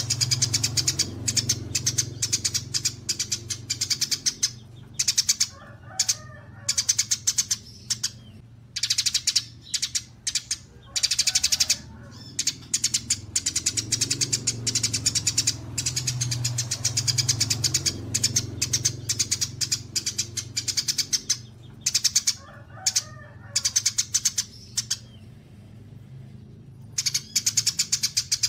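Small songbird singing a rapid, rattling series of sharp high chirps in bursts of a few seconds with short pauses between, over a steady low hum.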